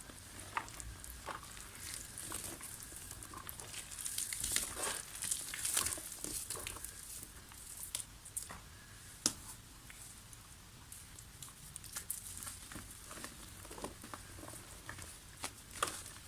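Dried soft mud being crumbled, giving an irregular gritty crackle with scattered sharp cracks. The crackle is thickest about four to six seconds in, and a single loud snap comes about nine seconds in.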